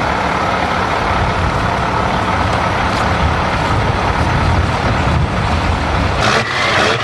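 Scania V8 truck engine running with a steady, deep rumble. A little after six seconds in, a burst of hiss breaks in over it.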